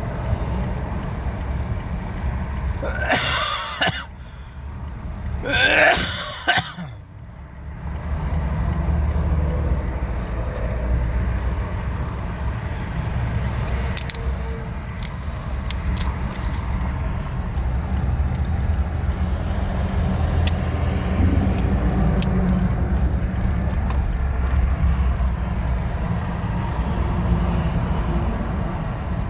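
A motor vehicle's steady low engine and road rumble, broken twice early on by short loud noisy bursts about three seconds apart.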